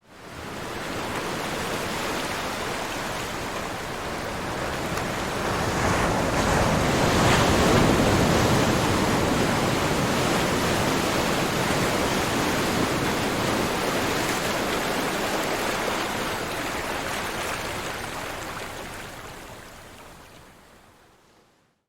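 Ocean surf: a steady rushing wash of waves that swells up, is loudest about a third of the way through, then slowly fades away.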